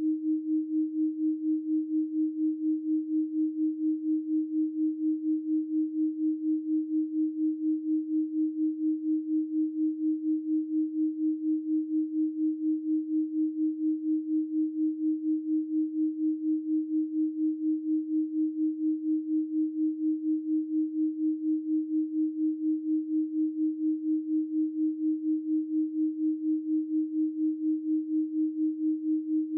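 Steady 312 Hz pure sine tone, one unchanging pitch.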